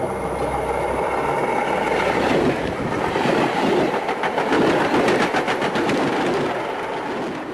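A train running fast on the rails: a steady rush and rumble, with its wheels clattering in quick clicks through the middle, fading near the end.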